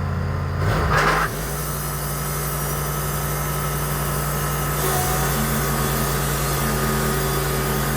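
Portable sawmill's engine running steadily. About a second in there is a brief louder burst, after which the engine settles to a lower, steady note.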